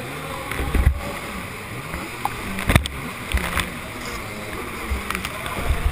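Jet ski engine running under a steady rush of water and wind, with wavering pitch, and several sharp thumps and splashes as the hull hits the water.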